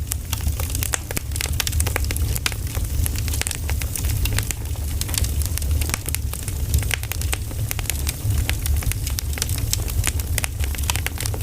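Wood fire burning, with frequent irregular crackles and pops of the firewood over a steady low rumble.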